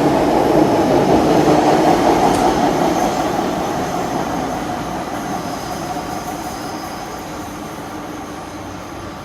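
Disneyland Resort Line M-Train running on the rails, its rumble fading steadily as it pulls away, with a faint high squeal in the middle.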